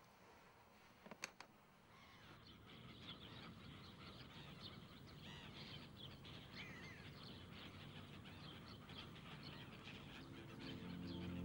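Faint outdoor birdsong, many small birds chirping, fading in about two seconds in after a short click. Held music notes begin near the end.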